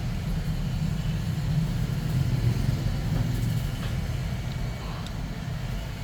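Steady low background rumble, with a few faint light ticks.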